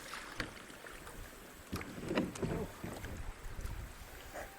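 Kayak paddling: paddle blades dipping and splashing in the creek, with a few light knocks and some wind noise on the microphone.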